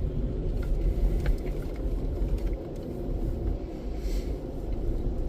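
A car's engine and tyres rumbling steadily as it rolls slowly, with a few faint clicks.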